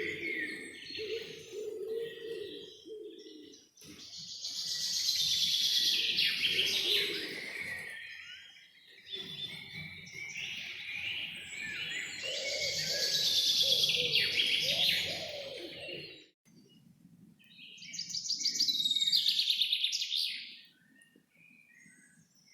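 Songbirds singing and chirping in three long bouts, with lower cooing or droning sound beneath them in the first part.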